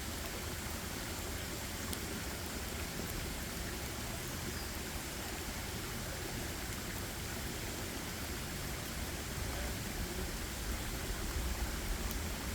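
Steady, even rushing noise of forest ambience, with a low rumble underneath that swells louder near the end.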